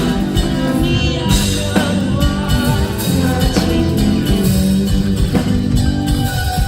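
Live rock band playing loud, distorted electric guitars, bass and drum kit with singing, recorded from the crowd at a concert.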